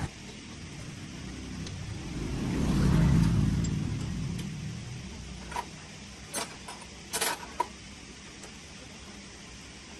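A motor vehicle passing by, its low rumble rising to a peak about three seconds in and then fading away, followed by a few sharp clinks.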